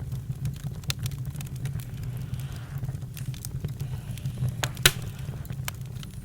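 Campfire crackling: a steady low rumble of burning with scattered sharp pops and snaps, one louder pop about three-quarters of the way through.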